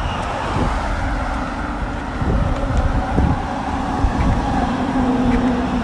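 Wind buffeting the microphone over a low motor drone, the drone growing stronger in the second half.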